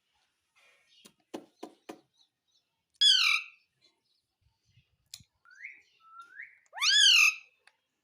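Pet parrot calling: two loud whistle-like calls, one falling about three seconds in and one rising then falling near the end, with short soft rising chirps between them. A few faint clicks come in the first two seconds.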